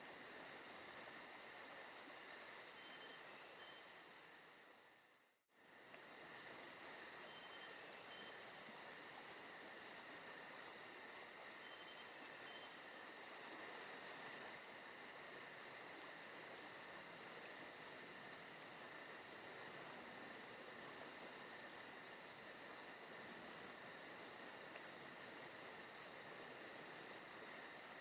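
Faint recorded forest ambience of crickets chirping in a steady, fast, even trill. About five seconds in it fades down to almost nothing and comes straight back, like the seam of a looped track.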